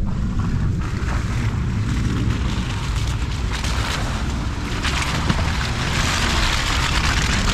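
Jeep Gladiator Rubicon driving on a trail: a steady low rumble with a rushing noise, typical of wind on the microphone and tyres on the track, that grows louder in the second half.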